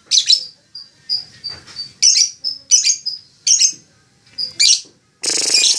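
Lovebird giving a string of short, sharp, high chirps, some of them in quick pairs. About five seconds in, a loud, harsh, rapid rattling sound starts abruptly and carries on.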